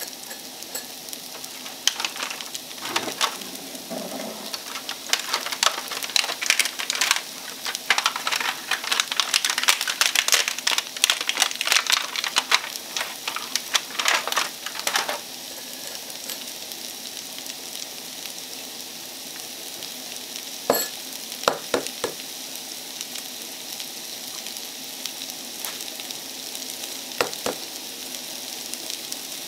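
Sliced carrots frying in a small nonstick pan, sizzling and crackling densely for the first half, then settling to a steadier sizzle. A few sharp taps in the second half as eggs are cracked against a ceramic bowl.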